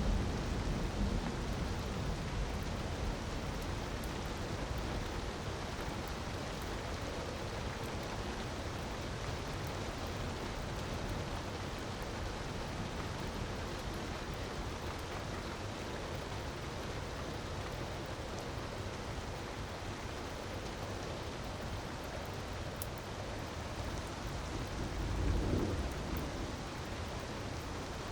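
Steady rushing water from a waterfall, with occasional faint, sharp crackles from a wood fire. A low rumble swells briefly about 25 seconds in.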